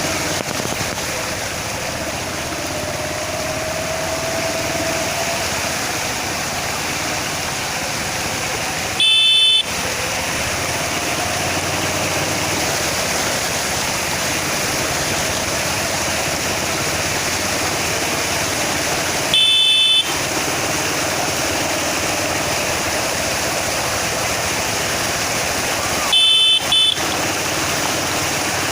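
Floodwater rushing steadily across a road, with a vehicle horn sounding three short times: about a third of the way in, again past the middle, and as a quick double toot near the end.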